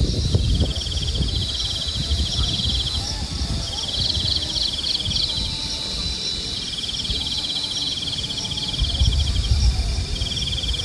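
Crickets chirping in repeated pulsed trills, each phrase lasting two to three seconds with short breaks between, over a low rumble of wind on the microphone that is stronger at the start and again near the end.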